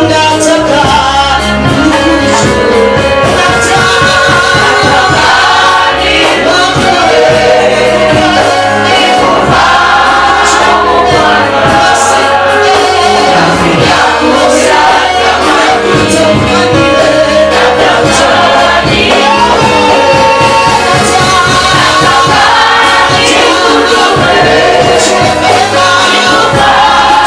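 Live gospel worship music: a choir singing with instrumental accompaniment and a steady beat.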